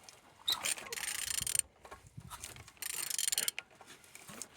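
An engine being turned over by hand with a ratchet wrench on the crankshaft, making clicking and rattling in two spells: one starts about half a second in, the other near three seconds in. It turns freely, which the seller calls "turning good".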